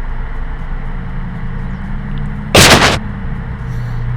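A steady low hum, broken about two and a half seconds in by one sudden loud burst of noise lasting under half a second.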